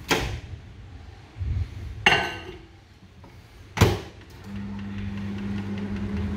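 Microwave oven being loaded and started: a couple of sharp knocks and a short ringing clink as the bowl goes in and the door shuts, then the oven starts running with a steady low hum.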